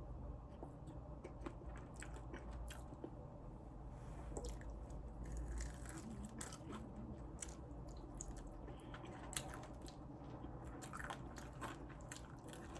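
Close-up eating sounds: crunchy fried chicken wings being bitten and chewed, with irregular sharp crackles from the breading.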